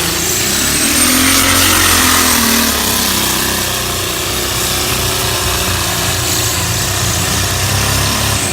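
A competition pulling vehicle's engine running loud and steady at high revs under load during a pull run.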